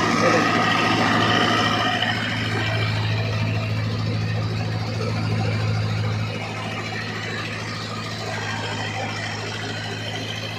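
DI 550 tractor's diesel engine running steadily at a fixed throttle while driving a paddy thresher, a constant low hum that drops slightly in level about six seconds in.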